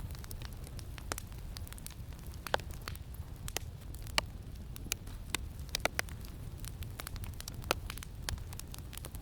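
Campfire crackling: irregular sharp pops and snaps over a steady low rumble of wind.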